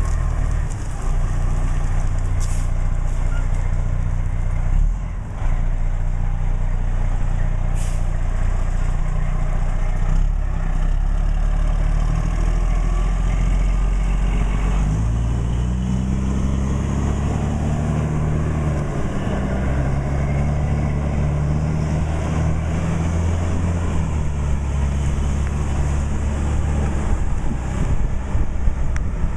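Fire truck's diesel engine idling, then pulling away about fifteen seconds in, its pitch rising in steps through the gears. Two brief hisses sound near the start.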